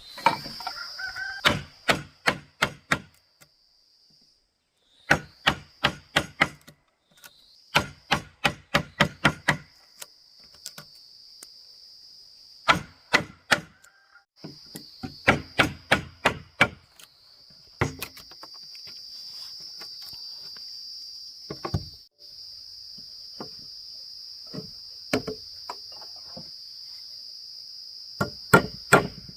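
Wood being struck with a hand tool in bursts of quick blows, about four or five a second, with pauses between the bursts. A steady, high insect buzz runs behind.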